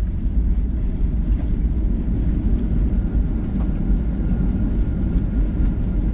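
Passenger airliner landing: a steady low rumble, with a faint high steady whine joining about halfway through.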